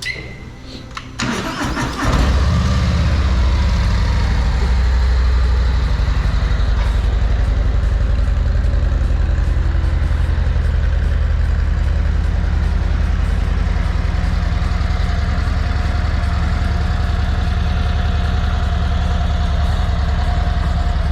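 Harley-Davidson Road Glide Special's 117 cubic inch V-twin cranked over on the starter, catching after about a second and settling into a steady idle. On its stock exhaust it sounds kind of quiet.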